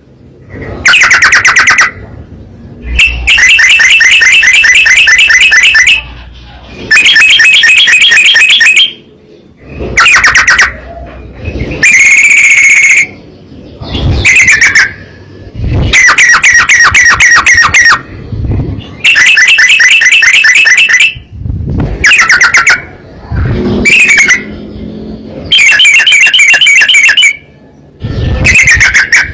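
Yellow-vented bulbul (trucukan) song: loud, rapid trilling phrases a second or two long, repeated about a dozen times with short pauses between.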